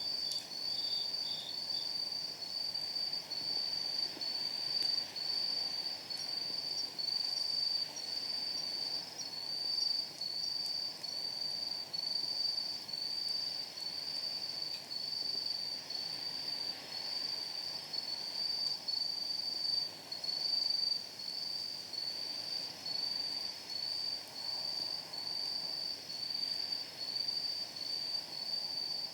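Night insects singing, one loud high-pitched chirp repeating evenly about one and a half times a second, over faint occasional crackle from a wood fire.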